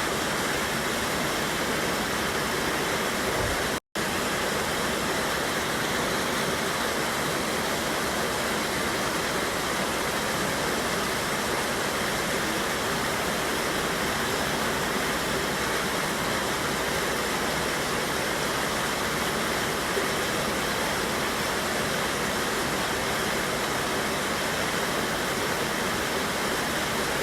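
A river waterfall rushing steadily, an even wash of falling water, with a brief dropout about four seconds in.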